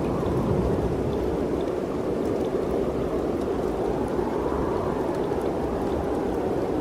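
Mountain wind blowing in a steady rush, swelling a little about two-thirds of the way through.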